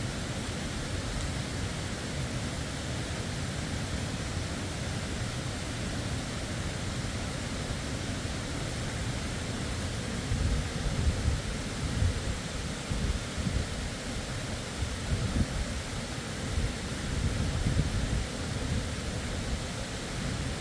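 Waterfall rushing steadily as an even hiss. Low, uneven rumbling surges rise over it in the second half.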